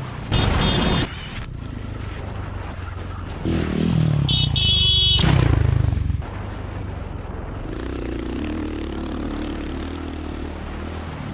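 Dirt bike engines running on a motocross track, with a low steady engine drone throughout. It is broken by two loud bursts of revving: a short one near the start and a longer one from about three and a half to six seconds in, falling in pitch as it fades.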